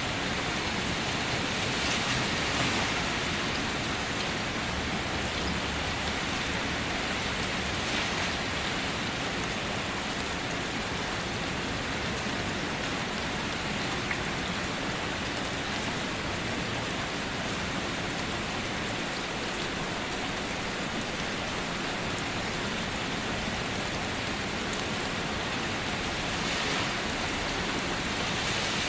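Steady rain falling, an even hiss of drops on a surface with a few brief swells in intensity.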